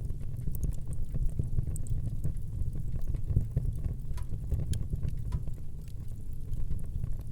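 Wood fire burning in a fireplace: a steady low rumble of the flames with scattered, irregular sharp crackles and pops.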